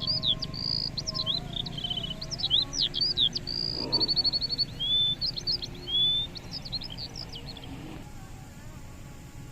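A songbird singing a rapid, varied song of high chirps, sweeps, whistles and short trills that stops about eight seconds in.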